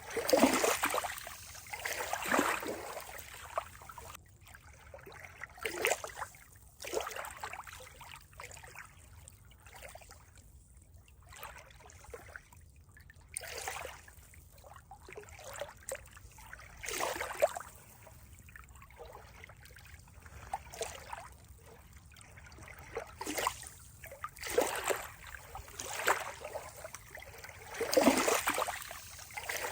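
Water trickling and splashing in irregular small surges, a second or two apart, with short quieter stretches between them.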